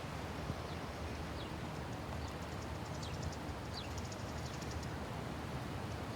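Birds calling over a steady outdoor hiss: several short, high, falling chirps and a few runs of rapid high ticking trills.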